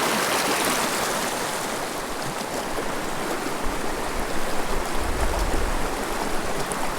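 Mountain river flowing: a steady rush of running water. A low rumble joins it for a couple of seconds past the middle.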